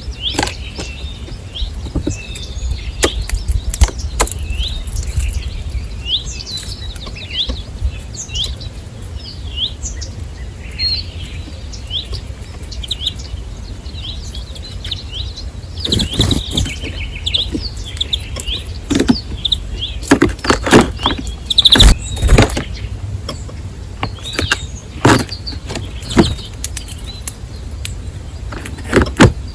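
Small birds chirping: many short, quick high chirps repeated over and over, mixed with frequent sharp clicks and knocks that come thickest past the middle, over a steady low rumble.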